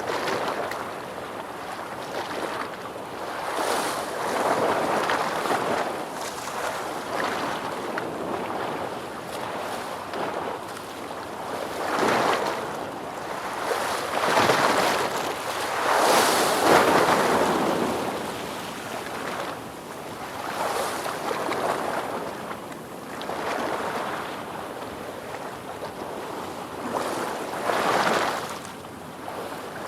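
Ocean waves breaking and washing in, rising and falling in loudness every few seconds, with the largest swell about halfway through.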